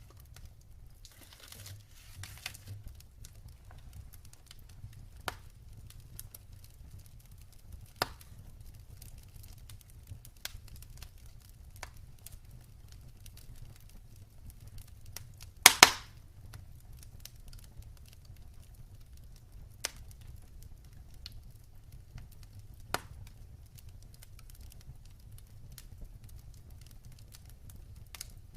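Wood fire crackling in a fireplace: scattered sharp pops and snaps over a faint low rumble, with one loud double pop about halfway through.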